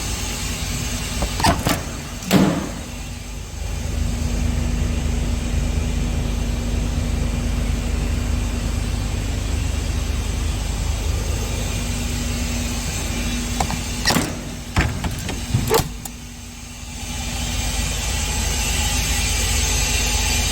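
Scania P410 truck's diesel engine idling steadily, with a few sharp clicks and knocks about two seconds in and again around fourteen to sixteen seconds in.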